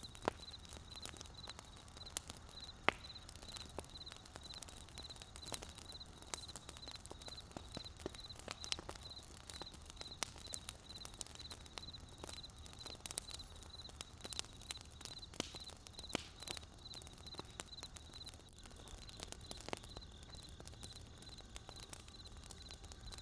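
Wood fire crackling, with frequent sharp, irregular pops and snaps over the low steady rumble of the burning.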